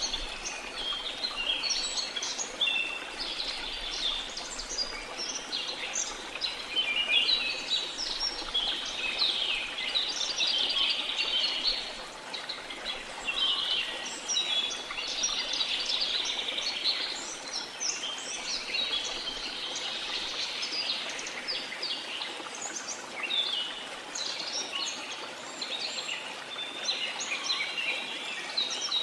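A dense chorus of many jungle birds chirping and calling, one over another, above a steady rush of falling water.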